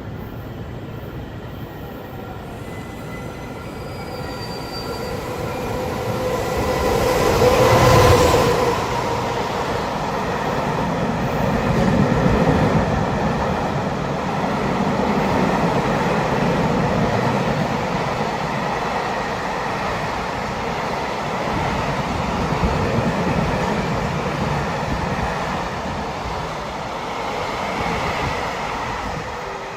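Train running on rails, a continuous rumble that swells to its loudest about eight seconds in, with faint thin whining tones from the wheels and running gear.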